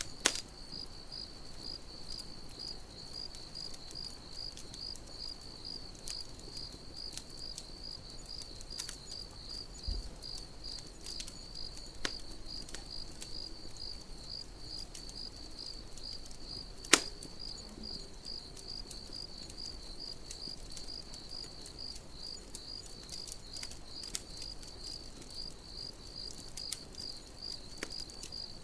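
Crickets chirping steadily in a high, pulsing trill, with a campfire's wood crackling and popping now and then; the loudest pop comes about two-thirds of the way through.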